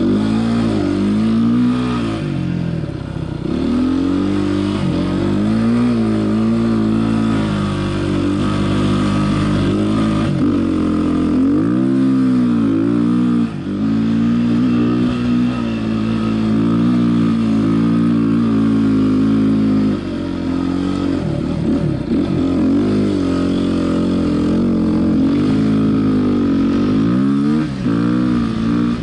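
Off-road motorcycle engine running hard on sand dunes, its pitch rising and falling continuously as the throttle is opened and rolled off. It dips briefly several times as the rider shifts or backs off over the crests.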